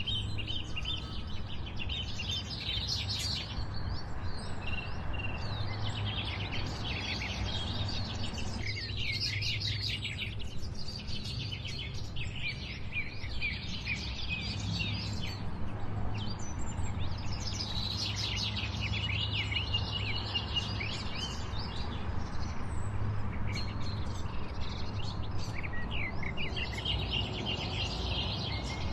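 Small songbirds chirping and twittering in repeated bursts of rapid chirps, over a steady low rumble.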